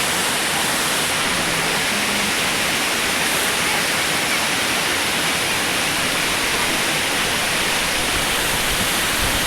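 Waterfall: water falling and splashing in a steady, unbroken roar of noise.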